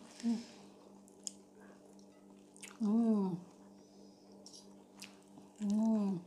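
Quiet eating sounds from a meal of fried gourami: soft chewing and small clicks, with two short hummed vocal sounds, rising then falling in pitch, one about three seconds in and one near the end.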